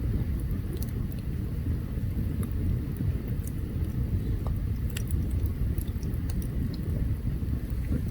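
Open campfire burning: scattered sharp crackles and pops over a steady low rumble.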